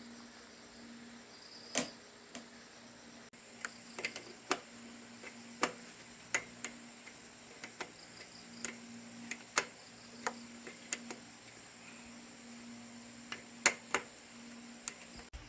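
Hand tools clicking and knocking irregularly against parts of a motorbike under repair: about twenty sharp clicks and taps at uneven intervals, the loudest about two seconds in and near the end, over a faint steady hum.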